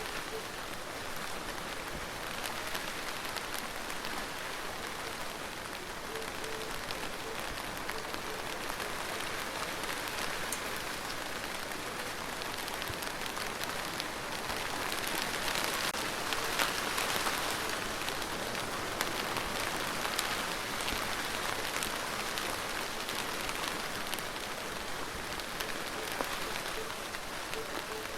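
Steady rain falling on a surface, a continuous hiss with separate drops heard as sharp ticks. It grows heavier for several seconds about halfway through, then eases back.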